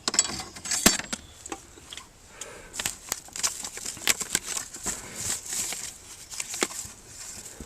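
Hands rummaging through a clutter of small tools and junk, giving irregular clicks, knocks and rustling as items are shifted and picked out.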